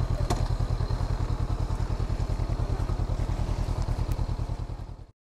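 Honda CB500X's parallel-twin engine running at low speed with a fast, even exhaust pulse, then stopping abruptly near the end. There is a single sharp click about a third of a second in.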